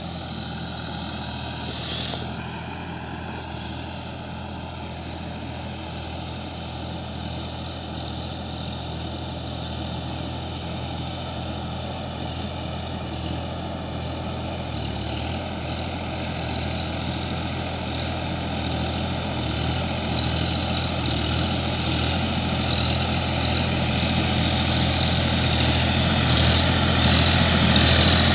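Sonalika DI-50 RX tractor's diesel engine running steadily, growing louder toward the end.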